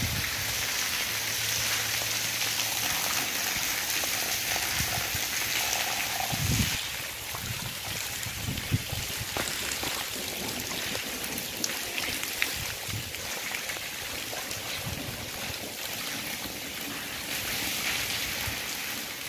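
Steady monsoon rain falling on a paved courtyard: an even hiss with the patter of drops, with a few scattered low thumps.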